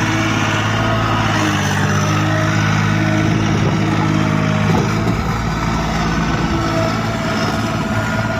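A motor vehicle engine running steadily at an even speed, its pitch shifting slightly about halfway through.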